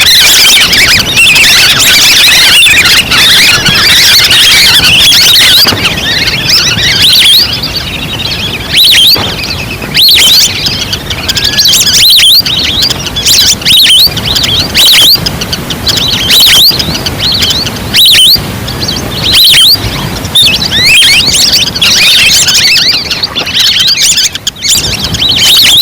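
Wild-duck lure-call recording: a flock of ducks giving high, chattering whistles. The calls are dense for the first six seconds, then come in short bursts about once a second.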